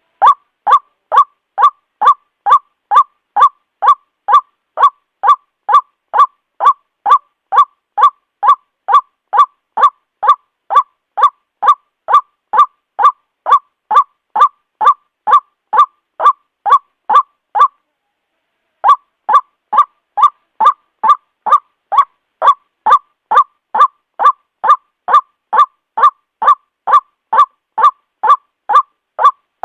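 White-breasted waterhen calling: a fast run of loud, identical short notes, a little over two a second, with a break of about a second past the halfway point.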